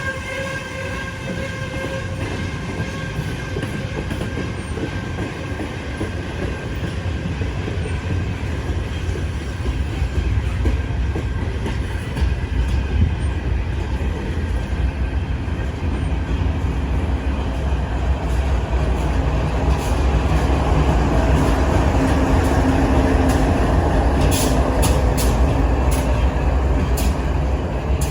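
Train passing, a steady low rumble that grows louder through the second half. A horn dies away at the very start, and a run of sharp clicks comes near the end.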